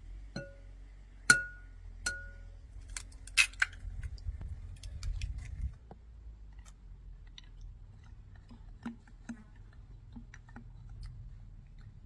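Kitchenware clinking and being handled: three short ringing clinks in the first two seconds, followed by a run of sharper clicks and scraping, then a few faint taps.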